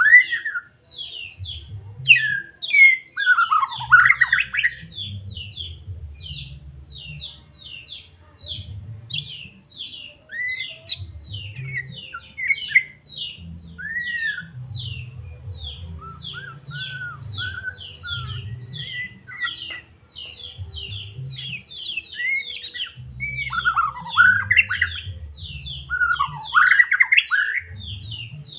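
White-rumped shama (murai batu) singing: a long run of quick, sharp high notes, about three or four a second, broken by lower sweeping whistles that are loudest near the start and again about three quarters of the way through. A faint low rumble comes and goes underneath.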